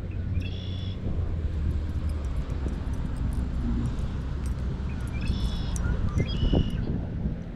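Short high bird calls, three of them, each about half a second, over a steady low rumble.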